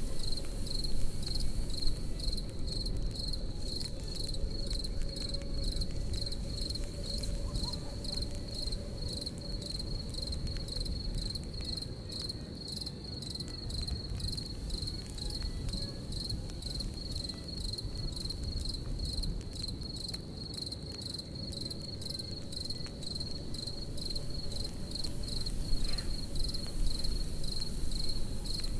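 Crickets chirping in a steady, evenly pulsing high trill, over the low rumble and faint crackle of a campfire.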